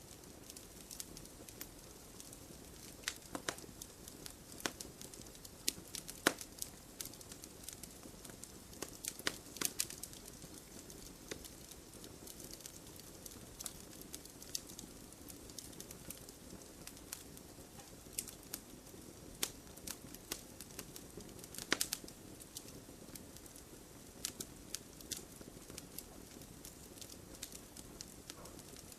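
Wood campfire burning with a soft steady hiss and irregular crackles and sharp pops, a few louder snaps among them.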